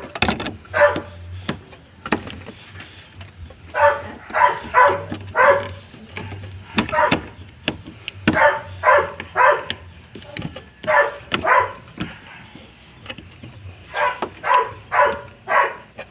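A dog barking repeatedly in quick runs of three or four barks, with pauses of a second or two between runs.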